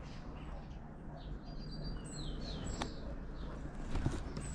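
Small birds chirping in short, high calls, with one light click about three seconds in.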